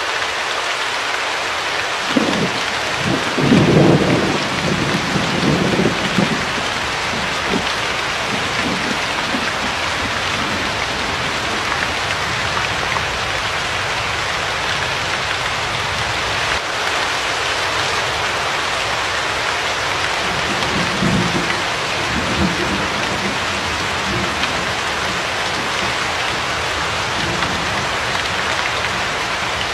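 Steady rain hiss with thunder rumbling low beneath it. The first roll starts about two seconds in and swells for several seconds, and a weaker rumble comes about twenty seconds in.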